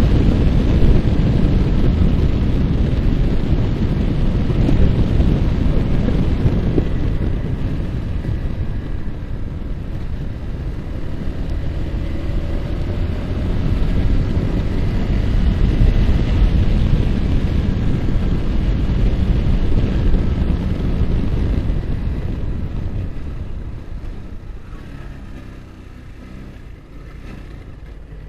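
Wind buffeting the microphone over a Yamaha R15's single-cylinder four-stroke engine running at speed, the engine pitch rising briefly about halfway through. Near the end the wind and engine fall away as the bike slows.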